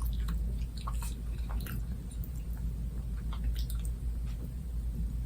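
A person chewing chicken wings close to the microphone, with irregular wet smacks and small clicks of the mouth, over a steady low hum.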